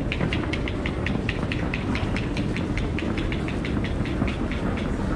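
Rapid, even clicking, about five clicks a second, over a steady low rumble; the clicking stops shortly before the end.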